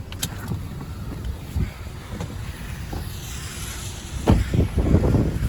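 Wind buffeting the microphone in a steady low rumble. About four seconds in, a run of loud bumps and thumps begins.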